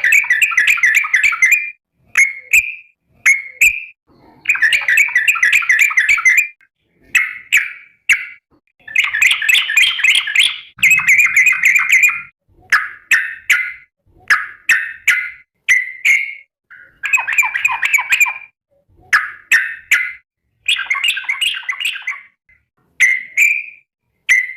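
Yellow-vented bulbul (trucukan) calling: loud, bubbly chattering phrases repeated again and again, each half a second to two seconds long with short pauses between. This is the call the bird uses to call its companions.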